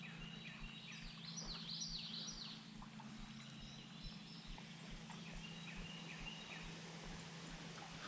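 A bird calling in quick runs of high chirps: a burst over the first couple of seconds and a shorter, softer run later, over a faint steady low hum.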